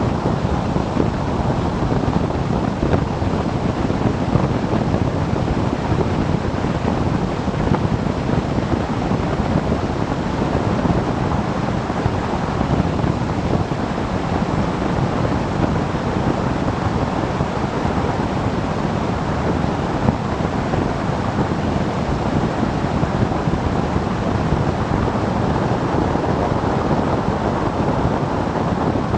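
Steady wind rush on the microphone of a moving motorcycle, with road noise beneath it.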